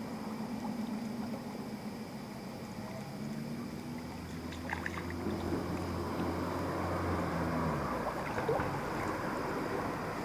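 Steady rush of flowing river water, growing louder in the second half, with a low engine hum passing from about three to eight seconds in.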